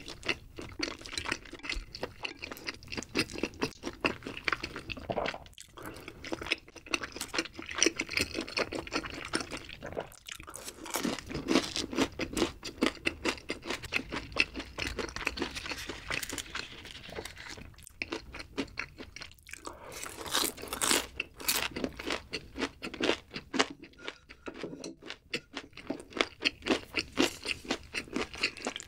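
Close-miked chewing and crunching of battered fried chicken feet and rosé tteokbokki: a steady run of wet chews and sharp crunches. The crunches are loudest about a third and about two-thirds of the way in.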